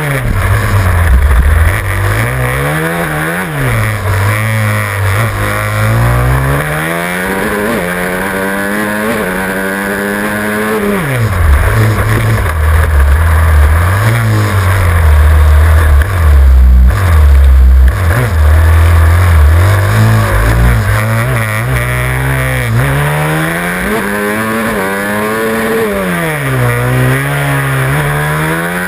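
Supermoto motorcycle engine at race pace, heard from on the bike: it revs up in short climbs through the gears, then drops back off the throttle, over and over through the lap.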